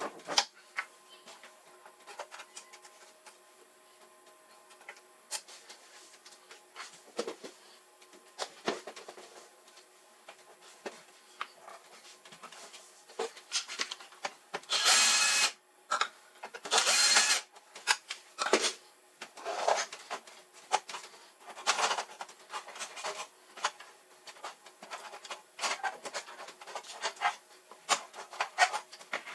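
Hands and tools working on a monitor: scattered clicks and rubbing scrapes, with two louder, longer scrapes about halfway through, over faint steady tones.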